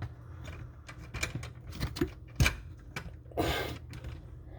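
Scattered small clicks and knocks of metal parts being handled under a bathroom sink as the clamp on the pop-up drain linkage is worked loose, with a short scraping rustle about three and a half seconds in.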